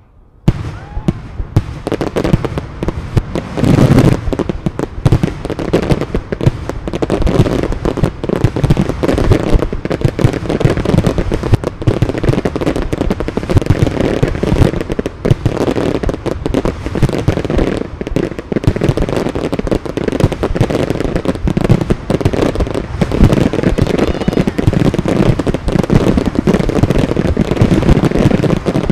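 Fireworks display: a dense barrage of aerial shells bursting, many loud bangs overlapping with no break, starting suddenly just after a quiet moment.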